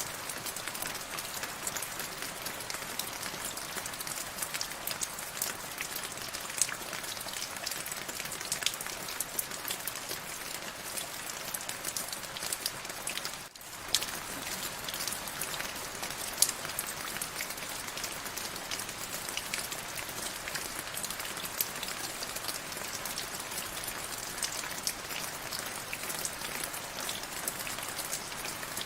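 Steady rain falling, a hiss with many separate close drop hits over it. The sound dips out for a split second about halfway through.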